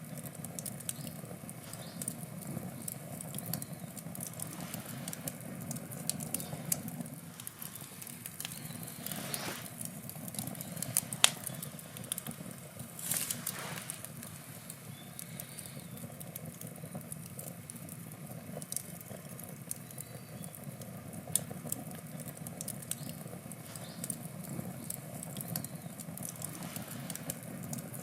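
Wood campfire burning: a steady low rumble of flames with frequent sharp crackles and pops. One louder pop comes about eleven seconds in, and a brief burst of hissing follows a couple of seconds later.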